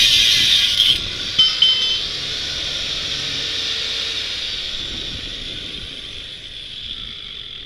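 Angle grinder cutting through a steel bicycle frame tube with a high-pitched grinding hiss. About a second in the cut stops, with a brief metallic squeak, and the disc winds down, fading slowly over the next several seconds.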